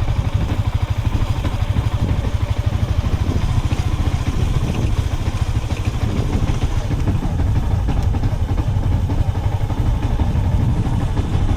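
A vehicle engine running steadily, with a deep, rapidly pulsing low rumble.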